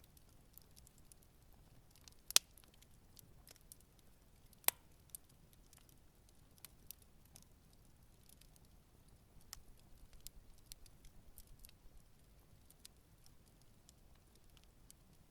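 Campfire crackling: sparse sharp pops and ticks of burning wood. There are two loud pops about two and a half and five seconds in, and a run of small crackles in the middle.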